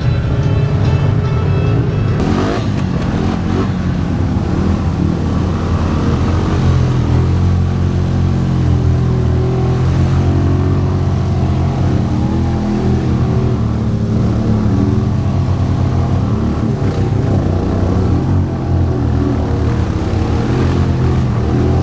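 Off-road vehicle engine revving up and down repeatedly as it works through deep mud, with background music underneath.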